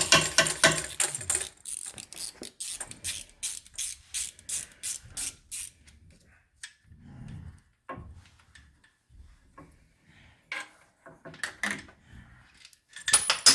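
Ratchet wrench clicking in a quick run of strokes for about five seconds as the timing chain guide bolts are undone, then scattered tool clicks and knocks.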